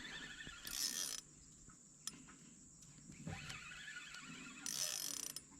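Faint mechanical clicking from a small spinning fishing reel being handled, in two short spells, about a second in and near the end.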